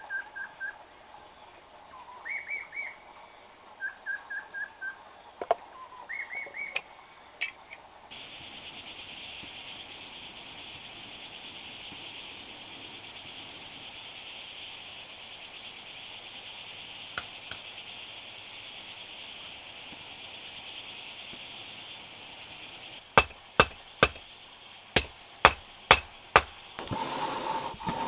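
Short repeated bird chirps, then from about eight seconds in a steady high-pitched hiss, and near the end a run of about eight sharp knocks.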